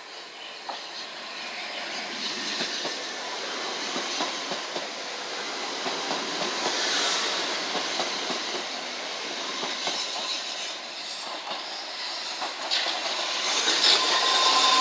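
Southeastern electric multiple-unit train running past, wheels clicking over the rail joints, growing louder as it comes close. Near the end a steady high whine sets in over the rumble.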